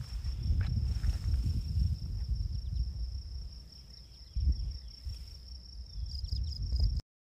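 An insect trilling on one steady high note, over a low rumble on the microphone with a few faint clicks; everything cuts off abruptly near the end.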